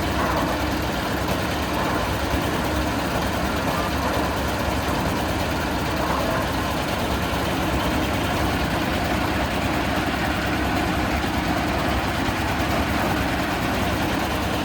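A 440-model concrete mixer machine running steadily, its engine holding an even speed with no change throughout.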